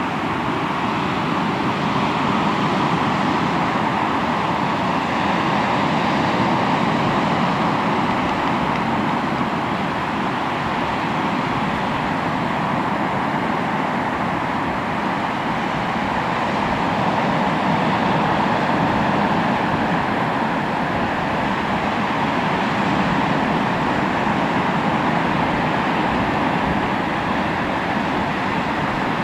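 Sea waves breaking and washing on the shore: a continuous rushing that swells and eases gently every several seconds.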